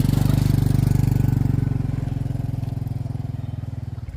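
Small engine running fast just after starting, its pulsing slowly easing off, then dropping to a quieter idle near the end.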